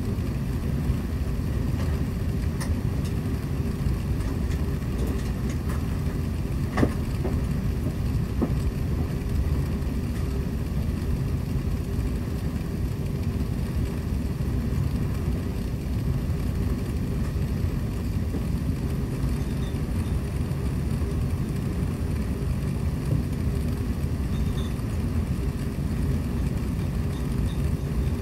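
Airliner cabin noise: the steady low rumble and rushing hiss of jet engines and airflow, with a constant hum running through it. A single light knock sounds about seven seconds in.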